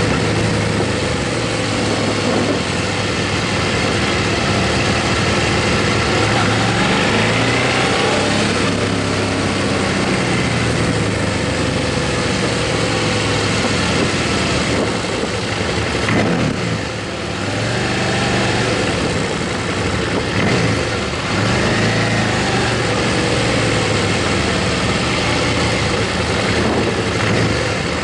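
Motorcycle engine running under way, its pitch rising and falling with the throttle over a steady rushing noise; it drops off briefly twice, about two-thirds of the way through, as if easing off between gears.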